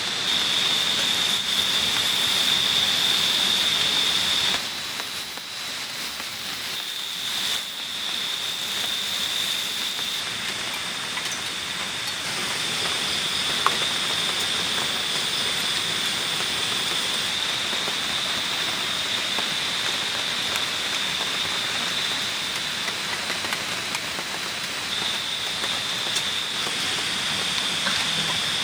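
Steady hiss of falling or rushing water in a tropical forest, with a high, steady insect drone over it. The drone drops out about four seconds in and comes back a few seconds later, and a second, higher drone joins it for a few seconds midway.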